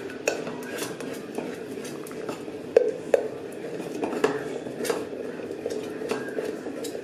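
Metal spoon stirring thickening porridge inside an electric kettle, with irregular clinks and scrapes against the kettle's metal sides, two of them sharper about three seconds in. Under them runs a steady low hum from the kettle, switched on and coming up to the boil.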